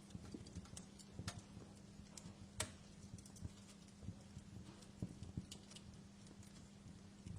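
Wood fire crackling faintly, with irregular small pops and one sharper snap about two and a half seconds in, over a low steady hum.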